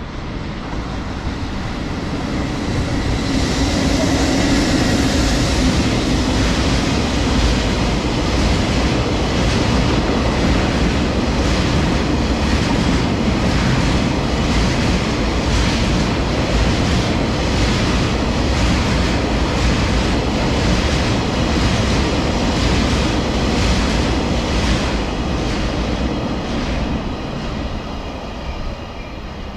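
Freight train passing: a steady rumble of wheels on rail with regular clickety-clack over the rail joints. It swells over the first few seconds and fades near the end.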